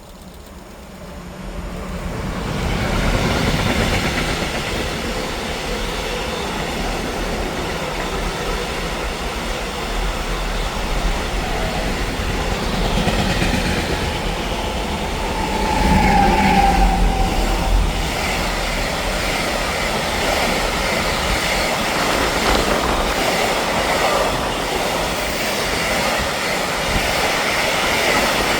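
Train passing close by: its noise swells over the first few seconds, then holds as a steady rush of wheels on rails. A brief high wheel squeal comes a little past halfway.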